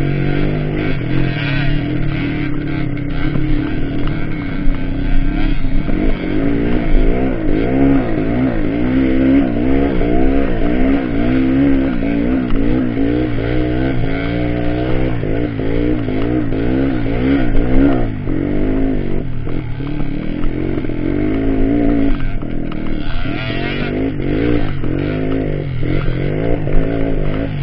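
Off-road trail motorcycle engine revving, its pitch rising and falling again and again in quick waves.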